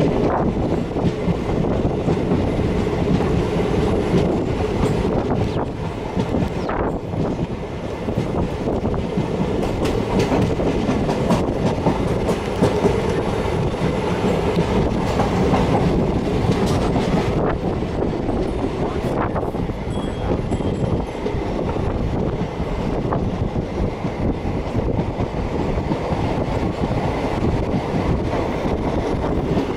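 Passenger train running along the line, heard from an open window of a coach: a steady rumble of the wheels on the rails, with a few sharp knocks from the track here and there.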